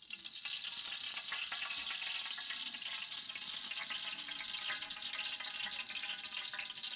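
Cooking oil sizzling and crackling steadily in a hot pan just after it has been poured in.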